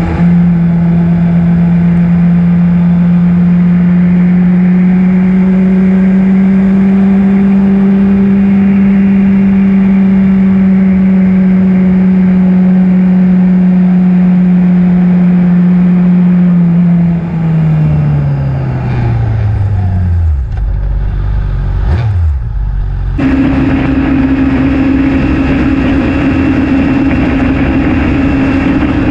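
2008 Honda CBR600RR inline-four engine running at steady cruising revs, with ride noise. About two-thirds of the way through the revs fall away over several seconds as the bike slows. After a brief break the engine settles into a steady, higher-pitched note.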